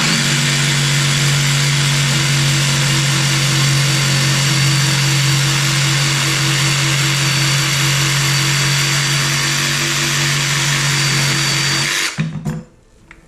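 DeWalt 20V cordless jigsaw (DCS331) running at a steady speed, sawing through a 2x4, then stopping about twelve seconds in, followed by a couple of short knocks.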